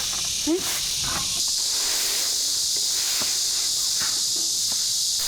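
Insects buzzing in a steady, high-pitched chorus that gets louder about a second and a half in, with a few faint knocks.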